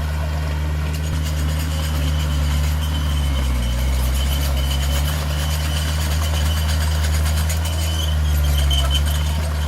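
Heavy-equipment diesel engine running steadily. Its pitch sags briefly about three and a half seconds in, then recovers.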